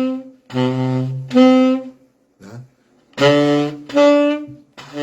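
Saxophone alternating a low C with its first harmonic an octave above, held notes about half a second each, low-high pairs repeated. The upper note is an overtone made by embouchure and throat alone, without the octave key.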